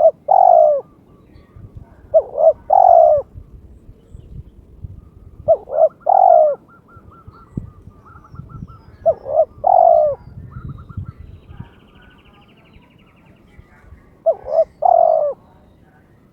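Spotted dove cooing, a territorial challenge call: five phrases a few seconds apart, each two quick notes followed by a longer falling coo.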